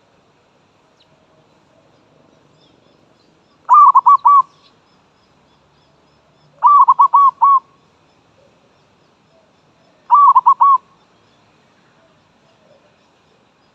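Zebra dove (merbok) cooing: three loud calls, each a quick run of a few rolling notes, about three seconds apart.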